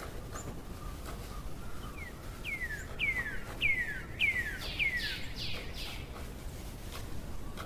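A bird singing a run of about six clear notes, each sliding downward in pitch, roughly two a second. The run ends in a few harsher, raspier notes, over a low outdoor background hiss.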